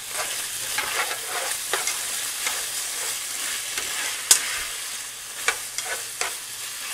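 Beef tips sizzling steadily as they fry in hot oil in a pan, with a few sharp clinks of cookware, the loudest about four seconds in.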